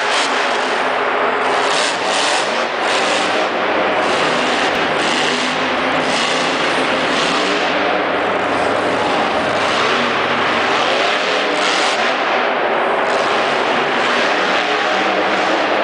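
Monster truck engine running loud, with its pitch wavering up and down as it revs, over a dense wash of noise.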